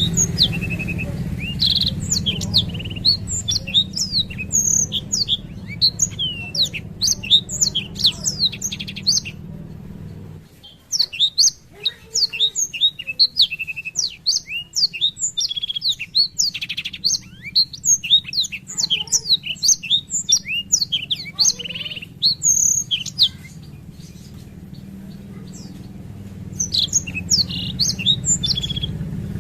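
Blackthroat (black-throated canary) singing a long rolling song of rapid high chirps and short trills, breaking off for about a second roughly nine seconds in and for a few seconds near the end before starting again. A low steady hum runs underneath during the first third and again near the end.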